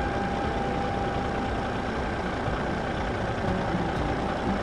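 Steady engine-like running of a homemade toy tractor as it drives past towing its trailer over rough asphalt.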